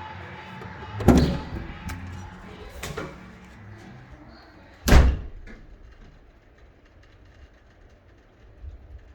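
Three sudden thuds about two seconds apart, the third, about five seconds in, the loudest.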